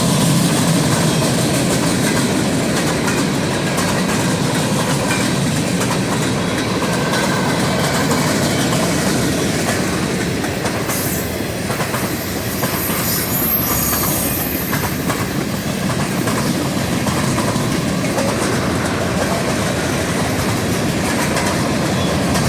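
A train rolling past on the rails, a steady rumble with the clatter of its wheels over the track joints, and a faint high wheel squeal for a few seconds around the middle.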